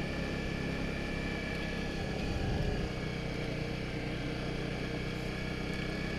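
Honda CRF250 Rally single-cylinder motorcycle engine running steadily while riding, heard from on the bike. It swells slightly for a moment about two and a half seconds in.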